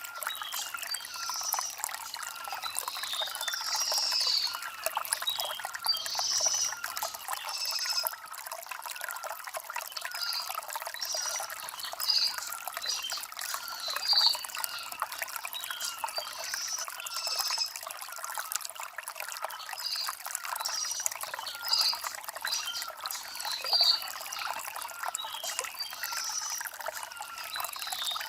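Shallow stream trickling and burbling over river stones, with birds chirping again and again every second or two.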